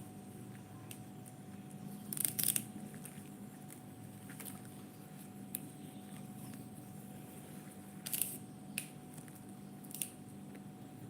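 Keerai greens being picked over by hand: short crisp snaps and rustles of stems and leaves, a louder cluster a couple of seconds in and a few more later, over a steady low hum.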